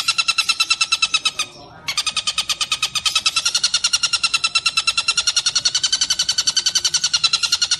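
Tengkek buto kingfisher calling in a long, rapid rattling trill of evenly repeated notes, about ten a second. The trill breaks off for half a second about one and a half seconds in, then starts again slightly higher.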